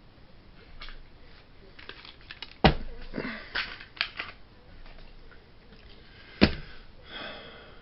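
Clicks and knocks of plastic HO model trains being handled and set down, with two sharper knocks, about two and a half seconds in and again near six and a half seconds.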